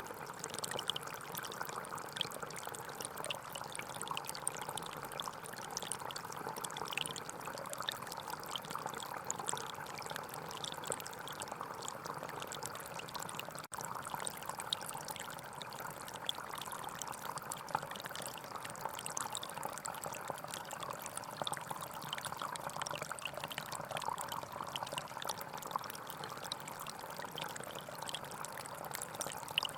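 Small forest stream flowing steadily over stones, a continuous babbling and trickling with many small splashes, broken by a momentary dropout about fourteen seconds in.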